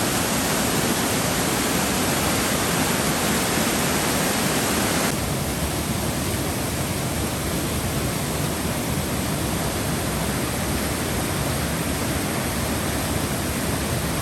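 Steady rushing of flowing water, as from a stream or small waterfall. It becomes slightly duller about five seconds in.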